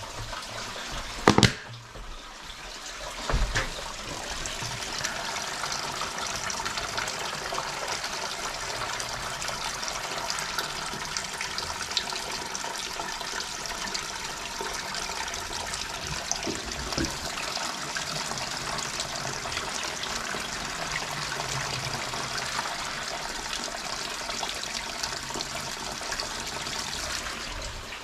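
Spring water pouring in a steady stream, starting after a sharp knock and a smaller bump in the first few seconds.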